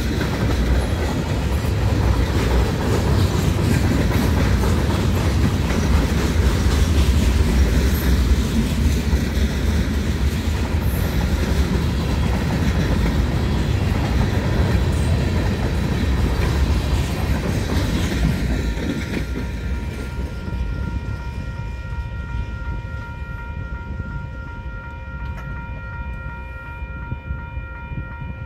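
Freight cars rolling over a grade crossing with a clickety-clack from the wheels, fading away as the end of the train passes about two-thirds of the way in. A steady ringing tone from the crossing warning bell is then left on its own.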